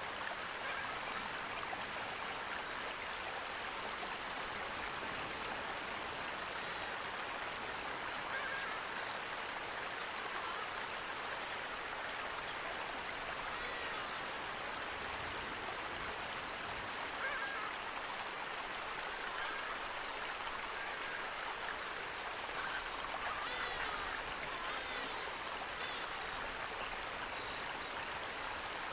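Steady rush of running water from a stream or small waterfall, with a few faint, short bird calls over it, a cluster of them near the end.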